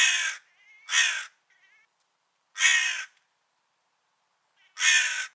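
Crow cawing: four separate caws, the first two about a second apart, then longer gaps before the third and the fourth, with a few faint softer calls between the early ones.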